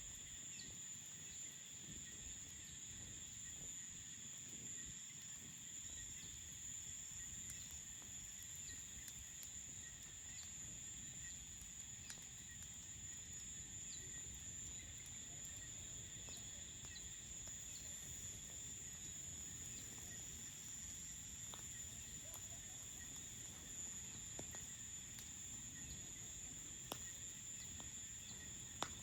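Steady chorus of crickets: a continuous high-pitched trill with a lower, weaker trill beneath it, and faint scattered clicks over a low background rumble.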